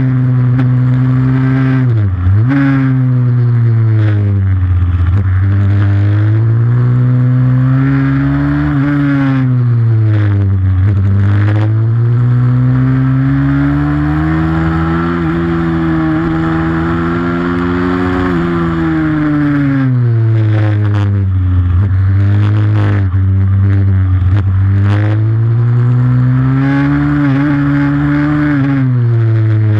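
Pit bike's single-cylinder four-stroke engine running hard, its revs rising and falling again and again as it accelerates and eases off, with a sharp drop about two seconds in and several quick dips later.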